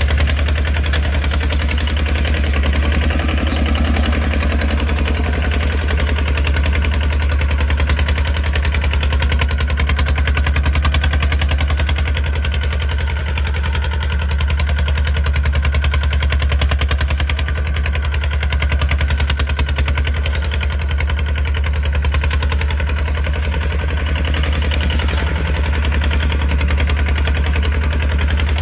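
Kubota RT155 single-cylinder diesel engine of a walking tractor running steadily with a fast, even chugging beat.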